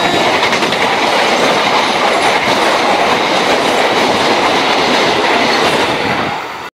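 Passenger train coaches passing close by, a loud steady rush of wheel and rail noise with quick clicks of wheels over the rail joints. It fades out near the end as the last coach goes by.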